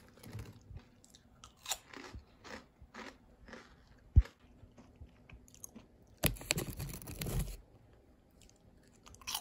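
Faint, close-up sounds of someone eating snacks: a string of small crunches and bites, with one sharp tap a little past halfway and a denser scratchy burst of crunching for about a second and a half near the end.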